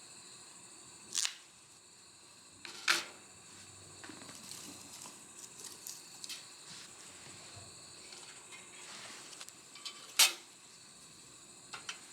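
Three sharp clicks or taps with a brief ring, about a second in, about three seconds in and near the end, over a faint steady hiss and a few smaller ticks.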